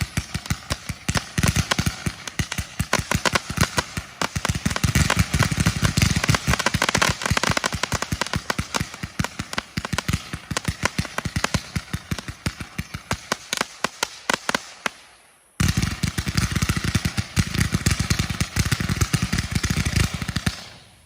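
The "Pyro Pandemic OMG" consumer firework going off in a long, rapid string of sharp cracking reports. The cracks cut off suddenly about three-quarters of the way through, then start again after a brief pause and stop near the end.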